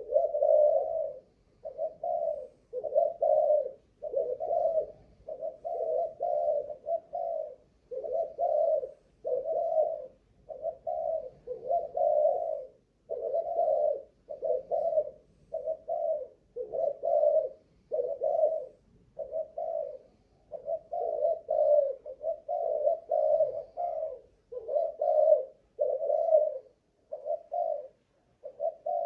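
Malaysian-strain spotted dove cooing over and over: low coo notes about once a second, in runs broken by short pauses.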